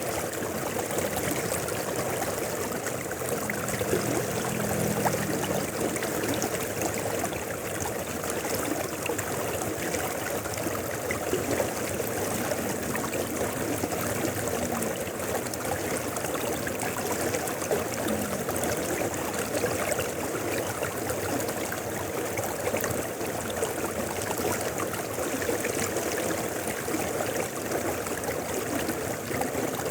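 A mountain river flowing steadily, an even, unbroken sound of running water.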